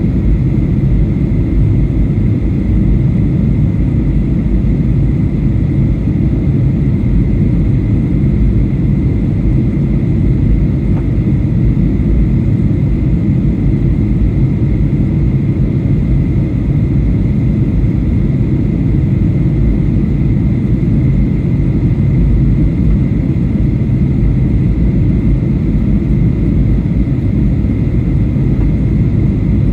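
Boeing 737-800 cabin noise in flight: a steady low roar of the CFM56 jet engines and airflow heard inside the cabin, with a thin steady high tone above it.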